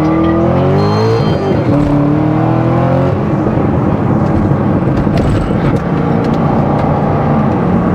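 Chevrolet Corvette C6 Z06's 7.0-litre LS7 V8 accelerating hard. The engine note climbs, drops at an upshift about a second in, and climbs again. About three seconds in it settles into steady running.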